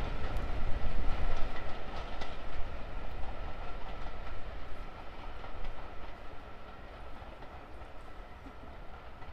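Steam-hauled train running past on the line, its wheels clattering over the rail joints, the sound fading steadily as it draws away.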